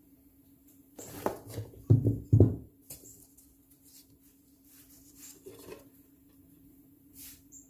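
Veneer roller worked over fabric freshly glued to the wooden slats of a tambour door: a short rumbling clatter about a second in, with two heavy knocks close together, then a few fainter taps.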